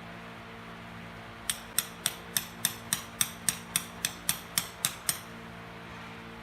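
A run of about fourteen sharp, evenly spaced clicks or taps, about four a second, starting about a second and a half in and stopping a little after five seconds, over a steady low hum.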